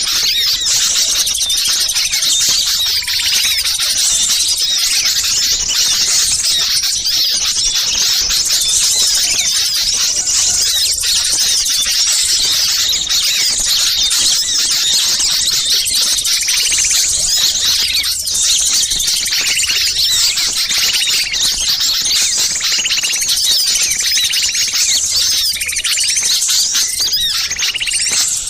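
Dense, unbroken chorus of many small songbirds chirping and twittering over one another in high-pitched, agitated calls: a mixed small-bird lure recording of noisy, excited birds.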